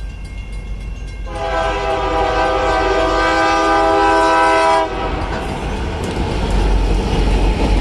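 Union Pacific locomotive air horn sounding one long chord-like blast of about three and a half seconds, starting about a second in. Right after it comes the loud rumble of the train passing over the crossing.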